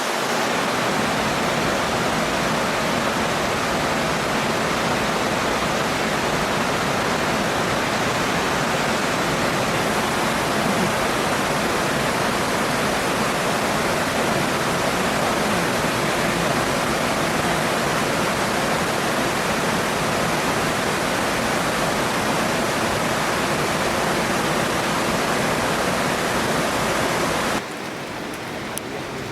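Steady rushing of flowing water, like a waterfall or stream. Near the end it cuts abruptly to a quieter, thinner hiss.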